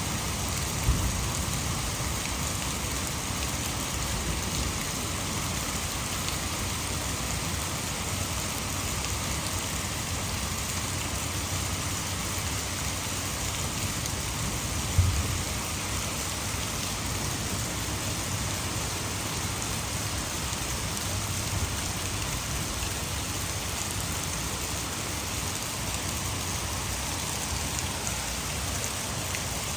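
Heavy rain pouring steadily, blended with the rush of water falling over a hydroelectric dam. Two brief low thumps break through, about a second in and again about halfway.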